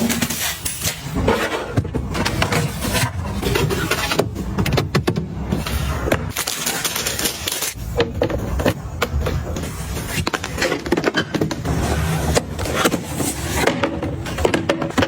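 Close-up handling sounds of items being picked up and set down while restocking: many sharp clicks, taps and knocks of containers and packaging, with rustling between them.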